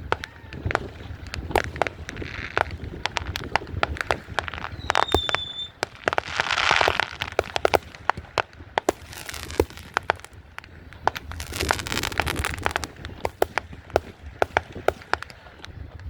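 Many consumer fireworks and firecrackers going off in quick succession, with sharp bangs throughout. A short whistle comes about five seconds in, and bursts of crackling come around seven and twelve seconds in.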